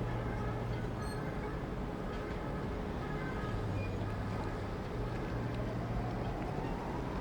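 An engine running with a steady low hum, and a whine rising in pitch over the last couple of seconds as it speeds up.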